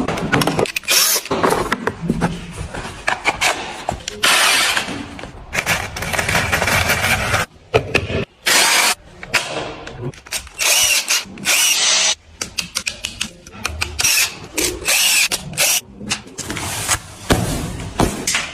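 Power-tool sounds of the kind heard during stretch-ceiling installation, such as a drill, coming in short bursts that start and stop abruptly.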